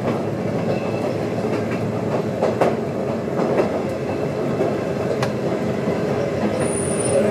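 Sotetsu 9000 series electric train running, heard from inside the car as it nears a station stop: a steady rumble with a few sharp clicks of the wheels over rail joints, and a brief high squeal near the end.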